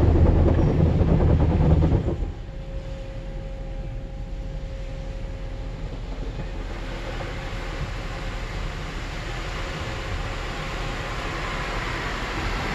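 Automatic car wash machinery heard from inside the car: a loud low rumble that stops abruptly about two seconds in, then a quieter steady mechanical hum with a hiss that builds gradually toward the end.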